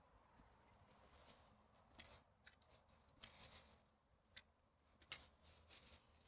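Dry rustling and crinkling in short, irregular bursts, with a few sharp clicks, like plastic litter or dry forest debris being handled.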